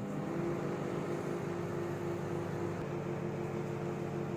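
Panasonic microwave oven running in combination mode: a steady hum made of several level tones.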